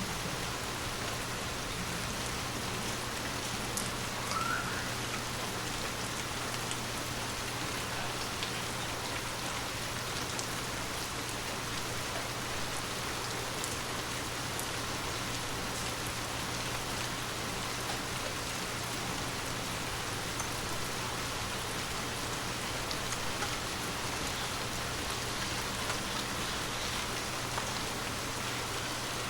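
Water drops pattering on glass: a dense, steady patter with scattered individual ticks.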